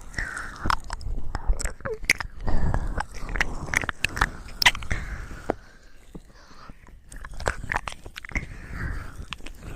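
Close-miked ASMR wet sounds: irregular moist clicks and smacks with a soft wet rustle right at the microphone, quieter for a moment about six seconds in.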